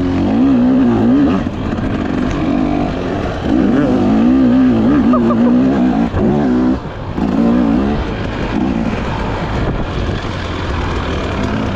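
Dirt bike engine revving up and down as it is ridden along a forest trail, throttle opening and closing with brief lulls every few seconds.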